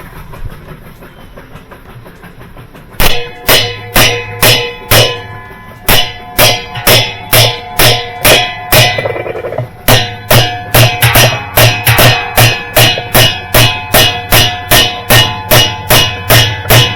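Hammer striking metal again and again with a ringing clang, at about two blows a second and quickening to about three a second partway through: parts being driven into place during a washer repair.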